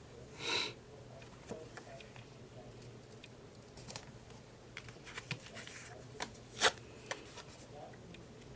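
Printed paper tags being handled: a brief swish of paper about half a second in, then scattered small ticks and taps, with a sharper click about two-thirds of the way through.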